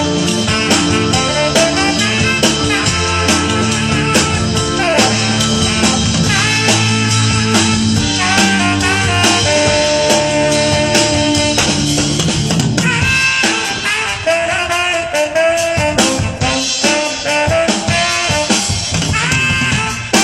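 Live band music during a sound check, with guitar and a steady beat, and some singing.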